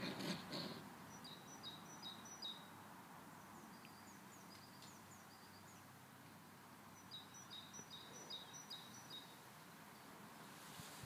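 A small bird singing faintly in the background: a short phrase of five or six high, evenly spaced chirps, heard twice, with a few stray high notes between. A brief soft rustle comes right at the start.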